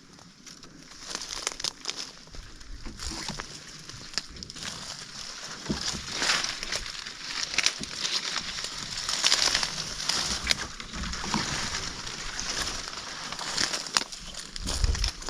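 Dry brush and leaves crackling and crunching as someone pushes on foot through thick undergrowth, with many irregular snaps and rustles.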